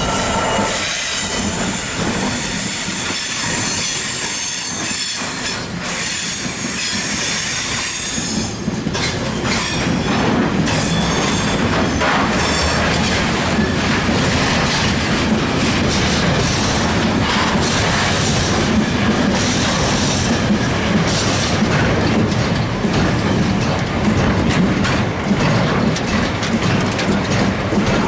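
Diesel-hauled freight train of ballast hoppers and flat wagons, led by a Class 66 locomotive, rolling steadily past close by. There is a continuous rumble and wheel clatter over the rail joints, and high wheel squeal in the first second.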